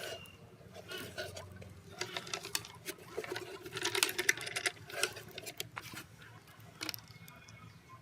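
Hands working on small metal fan parts with tools: irregular clicks, taps and scraping, busiest about four seconds in.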